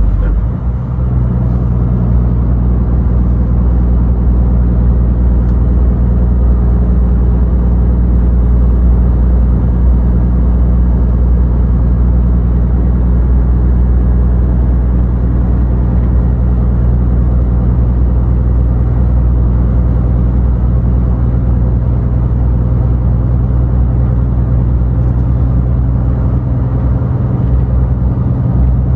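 Scania truck driving steadily: a constant low engine drone with tyre and road noise, dipping briefly about a second in.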